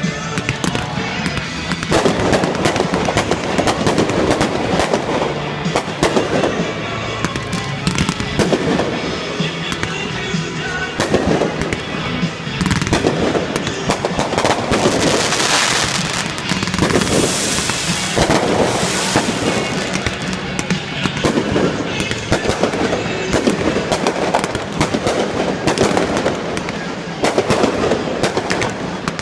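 Aerial fireworks bursting in rapid, continuous volleys of bangs, with a stretch of loud crackling about halfway through, over music.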